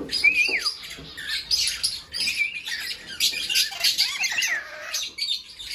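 Small birds chirping and squawking, many quick calls overlapping, with short whistled notes that slide down sharply in pitch, one about a third of a second in and several more around four seconds in.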